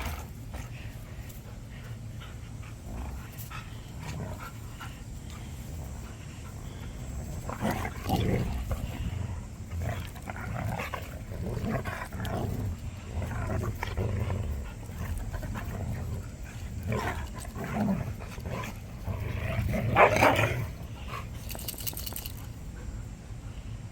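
Two dogs play-fighting, with short, irregular growls and huffs coming in bursts; the loudest burst comes about twenty seconds in.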